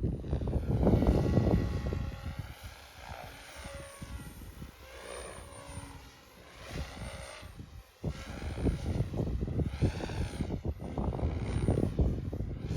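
Omphobby M4 Max RC helicopter flying, its rotor whine swelling and sweeping in pitch as it moves about. Gusts of wind rumble on the microphone during the first two seconds and again from about eight seconds in.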